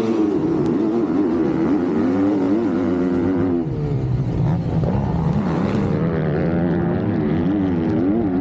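Motocross bike engines revving hard, the pitch repeatedly rising and falling with throttle and gear changes.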